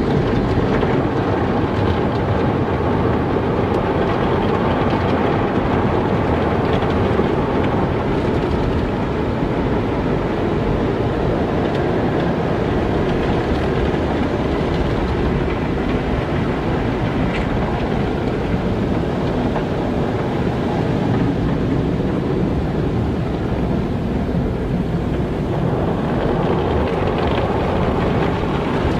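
Car wash running: a steady, unbroken rush of water and machinery, fullest in the low and middle range.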